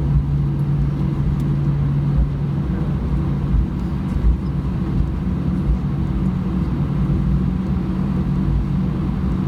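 Airbus A320 cabin noise on the ground after landing: the engines' steady low hum, which shifts slightly in pitch a few seconds in, over the uneven rumble and small bumps of the wheels rolling on the pavement.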